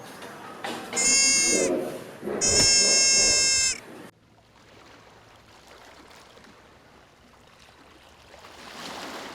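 Two high bleats, the second longer and louder. About four seconds in the sound cuts off abruptly to a faint hiss.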